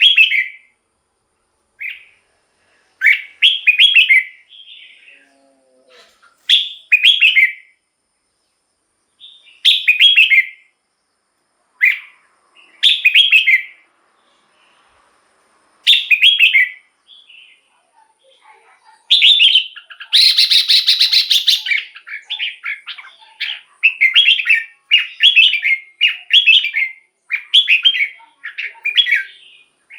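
Red-whiskered bulbul singing short, clear phrases every few seconds. About twenty seconds in there is a longer, harsher burst, and after it the phrases come faster, about one a second.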